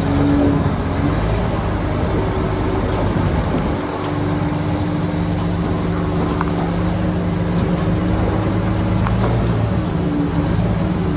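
Heavy diesel engine of earthmoving machinery running steadily, its tone shifting about four seconds in.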